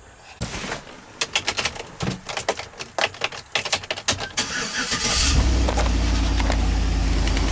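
A string of clicks and knocks, then about five seconds in the 2011 GMC Sierra 1500's engine starts and settles into a steady idle through its newly fitted muffler.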